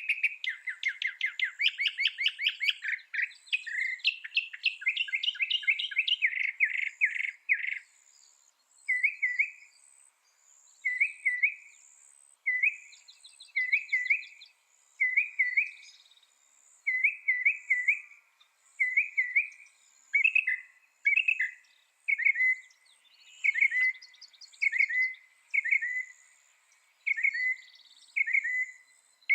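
Mockingbird singing: fast runs of repeated notes for the first several seconds, then a short slurred phrase repeated over and over, about once a second.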